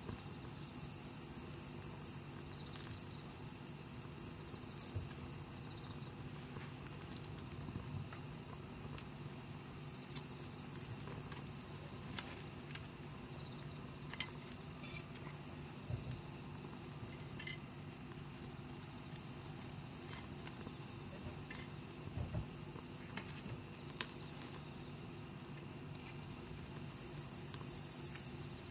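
Insects trilling outdoors: a steady, very high-pitched trill throughout, and a second, lower insect trill that comes in repeated runs of about a second and a half. Scattered faint clicks and crackles are heard under it, as from the campfire.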